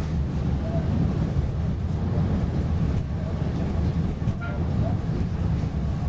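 PESA Fokstrot tram running along the track, heard from inside the passenger cabin: a steady low rumble of wheels and traction gear. A few faint brief squeaks come and go.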